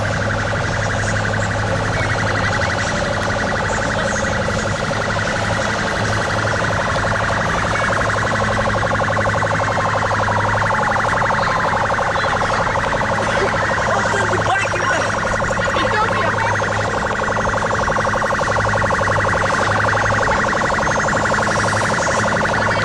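Several sirens wailing together, their pitches rising and falling and overlapping, over a steady low hum.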